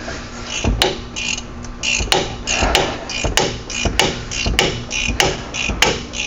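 Hammer tapping a socket onto a truck's axle nut: about eight sharp metallic strikes, evenly paced at roughly one every 0.6 seconds.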